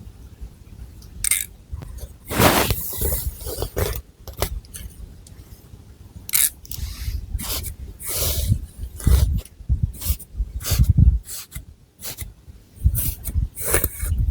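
Long fingernails scratching through thick long hair and across the scalp close to the microphone, in irregular strokes of scratching and rustling.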